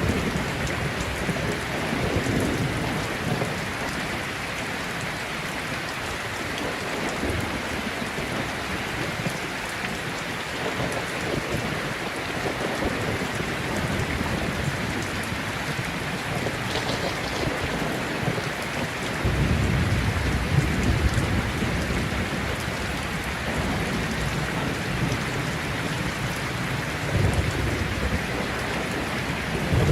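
Steady rain falling in a thunderstorm. Low rolls of thunder rumble beneath it, a longer one about two-thirds of the way through and a shorter one near the end.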